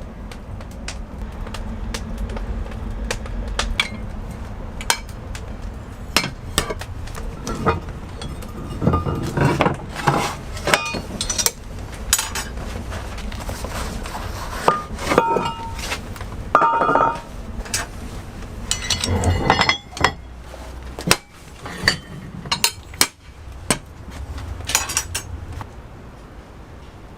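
Kitchen clatter: irregular clinks and knocks of metal utensils, dishes and trays being handled, with a few brief metallic rings near the middle, over a low steady hum.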